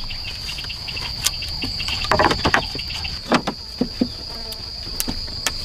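Insects in the forest making a steady high-pitched buzz, with scattered sharp knocks and clicks over it, several of them in the middle.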